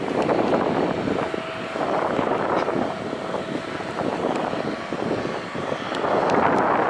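Jet airliner engines running, heard through gusty wind buffeting the microphone, with a faint steady whine for a couple of seconds.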